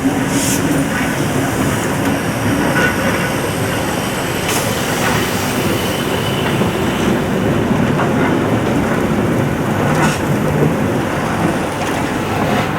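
Railway vehicles passing close by on the track: a steady, loud rumble with a few sharp clicks.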